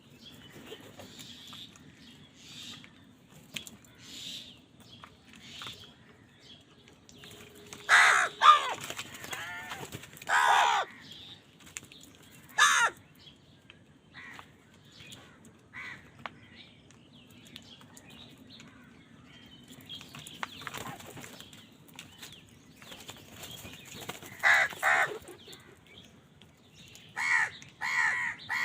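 Crows cawing: scattered short, harsh calls, some loud and some fainter, coming in small clusters, including a quick pair of loud caws, over a faint steady low hum.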